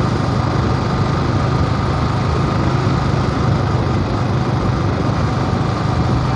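Motorcycle engine running steadily while riding, a constant low drone under an even rush of wind and road noise.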